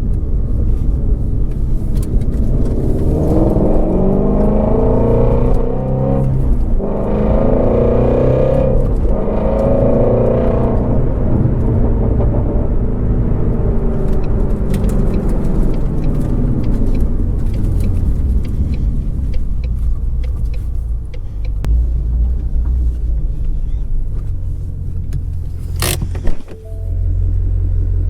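2019 Shelby GT350R's 5.2-litre flat-plane-crank V8 pulling hard, its note climbing in pitch and breaking at the upshifts, then settling into a steady low rumble. Scattered sharp exhaust crackles run through the cruise, with one loud crack near the end.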